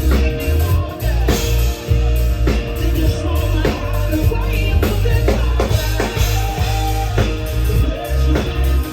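Live rock band playing a loud passage without clear vocals: drum kit hitting in a steady beat over heavy bass and guitar.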